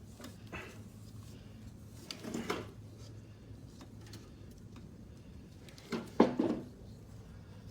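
Two short bursts of clattering and sliding, about two seconds in and a louder one about six seconds in, as a rowing machine's mechanism is moved by hand. Its return spring is broken, so the part gives no pull back.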